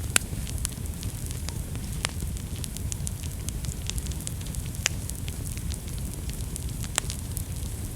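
Wood fire burning in a fireplace: a steady low rumble of flames with frequent sharp crackles and pops, a few louder pops standing out.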